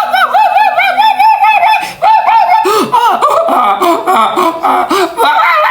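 High-pitched, rapid laughter, a quick run of "ha-ha" beats about five a second, with lower laughing joining in about halfway through.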